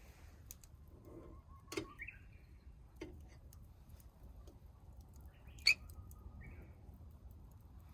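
A few sharp clicks or knocks, the loudest about two-thirds of the way through, each followed by a short faint chirp, over a quiet outdoor background.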